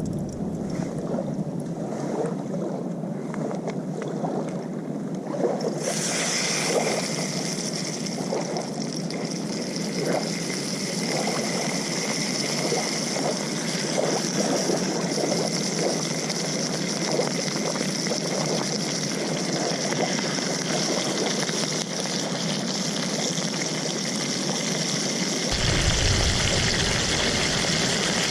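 Tallow sizzling on a hot titanium plate over a lit camp heat source; about six seconds in the sizzle turns louder and brighter and stays that way.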